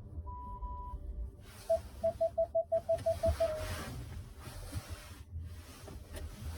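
Car's in-cabin warning beeps: one longer chime, then a quick run of short, evenly spaced beeps, about six a second, ending in a held tone. This is typical of the parking-sensor distance warning on a 2024 Hyundai Santa Fe when an obstacle is close.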